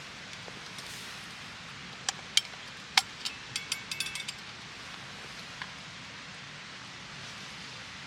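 A quick run of sharp clicks and light metallic clinks, some briefly ringing, over a steady outdoor hiss; one last click follows after a pause.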